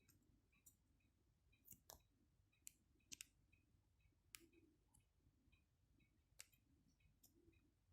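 Near silence with scattered faint sharp clicks and taps, about seven of them, and a much fainter tick about twice a second.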